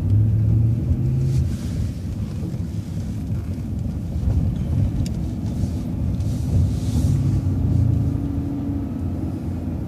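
Low, steady rumble of a moving vehicle's engine and road noise heard from inside the cabin, with a deeper hum swelling in the first second or so and again about seven seconds in.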